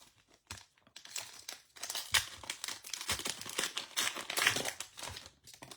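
Foil wrapper of a Topps Archives baseball card pack being torn open and crinkled: a crackling rustle, with a few scattered crinkles at first and then dense crinkling for about three and a half seconds.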